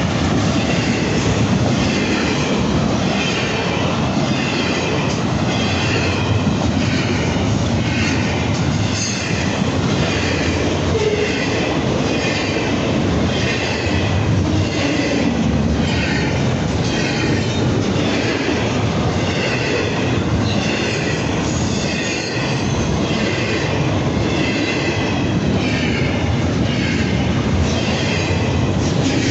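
Train rolling past close by, a steady heavy rumble of wagons on the rails with high wheel squeal that comes and goes about once a second.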